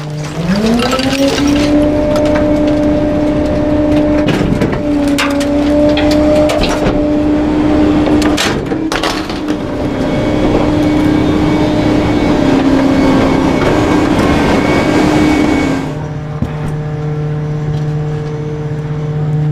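Garbage truck engine revving up from idle and holding high revs while the hydraulic packer runs, with sharp cracks and crunches of bulky items being crushed. The engine drops back to idle a few seconds before the end.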